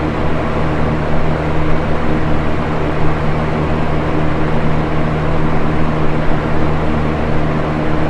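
Box fan running steadily: a constant rushing of air over a low motor hum.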